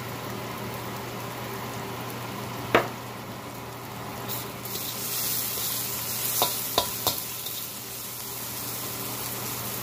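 Onions, green chilies and ground spices frying in coconut oil in a stainless steel wok, a steady sizzle. From about four seconds in, the sizzle turns louder and hissier for a few seconds. A sharp click comes near three seconds in, and a few more around six to seven seconds.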